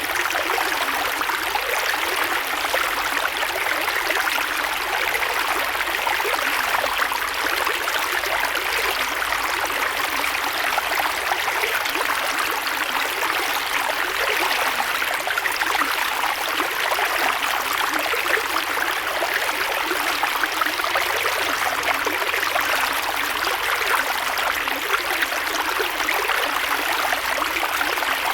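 Creek water flowing steadily over rocks: a continuous rushing and babbling with fine splashing detail and little low rumble.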